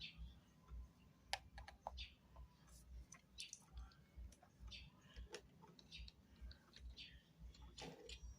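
Scattered faint clicks and light taps at an irregular pace, the small noises of objects being handled.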